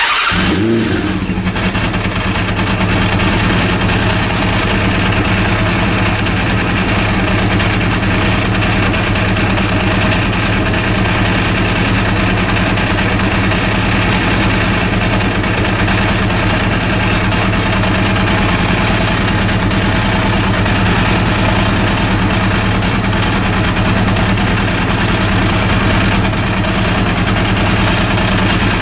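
Rebuilt Honda CB400 four-cylinder motorcycle engine catching with a brief rise in revs, then idling steadily. The third cylinder is by the owner's account still not firing.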